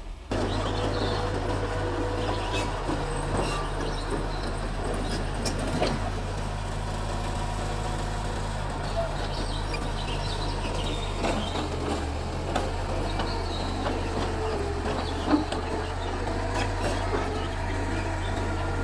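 Mitsubishi bulldozer's diesel engine running steadily under work, with scattered clanks and knocks.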